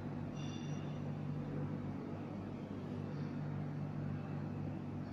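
Steady low electrical hum, with a short high tone about half a second in.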